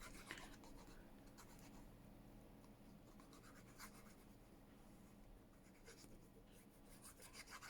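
Near silence with a few faint scratches and light taps of paper and card being handled and pressed down.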